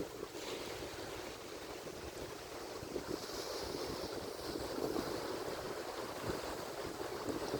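Atlantic Ocean surf: waves breaking and washing ashore in a steady rushing noise, with no single crash standing out.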